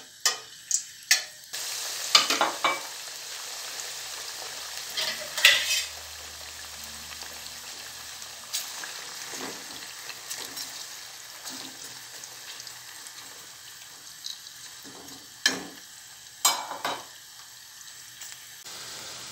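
Diced potatoes deep-frying in hot vegetable oil in a steel pot, a steady sizzle that gets louder about two seconds in. Occasional sharp clinks and scrapes of a metal slotted spoon stirring against the pot.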